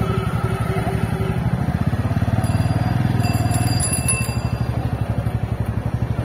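Motorcycle engine running at low speed, a steady low pulsing beat. A brief high-pitched ringing comes in the middle.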